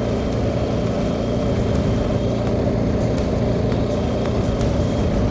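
BMW R 1250 GS Rallye's boxer-twin engine running steadily at road speed, with steady wind rush.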